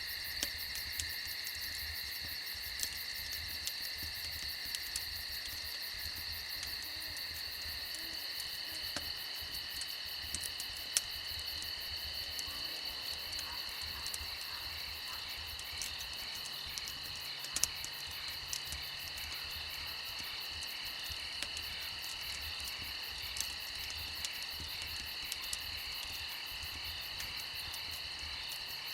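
A chorus of crickets chirping steadily at several pitches, with the scattered sharp crackles and pops of a campfire, the loudest about 11 and 17 seconds in.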